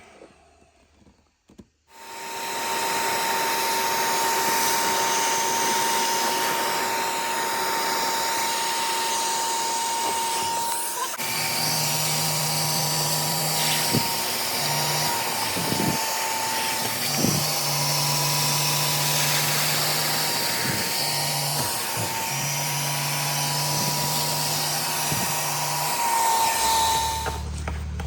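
Vacuum running steadily, a loud rushing noise with a high motor whine, starting about two seconds in. From about halfway a lower hum comes and goes several times over it.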